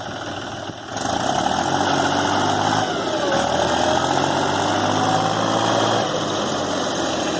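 Mahindra tractor's diesel engine running, then revved up about a second in; its pitch dips and rises as the revs change.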